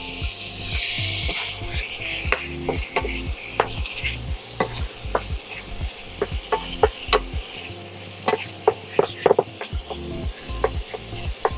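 Diced chicken breast sizzling as it drops into hot oil in a frying pan. A wooden spoon then stirs it, making repeated clicks and scrapes against the pan. The sizzling hiss is strongest in the first few seconds, and the spoon knocks come thickest past the middle.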